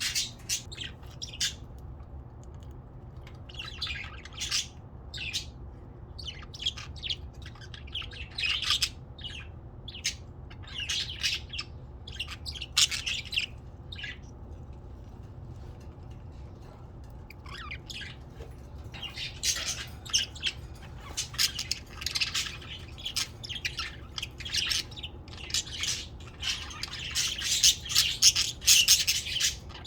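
Pet budgerigars chirping and chattering in short high calls: scattered at first, a lull about halfway, then a dense, louder stretch of chatter in the last ten seconds or so. A steady low hum runs underneath.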